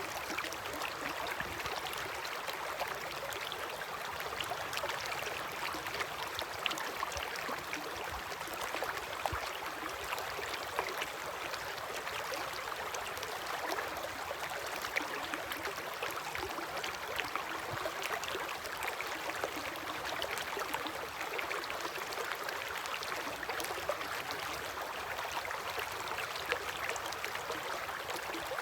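River water flowing, a steady rush dotted with many small splashes and ticks.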